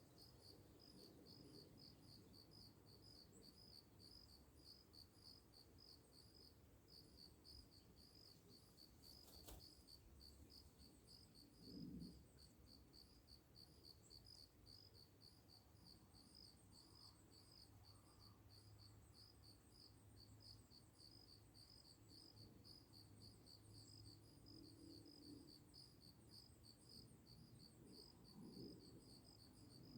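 Crickets chirping faintly in a steady, evenly spaced rhythm, with a brief low sound about twelve seconds in.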